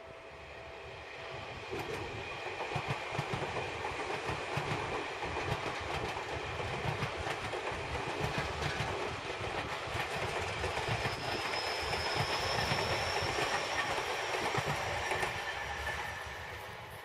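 Electric train on the Seibu Railway passing by, its wheels clattering rhythmically over the rail joints. The sound swells about two seconds in and eases off near the end, with a thin high whine in the second half.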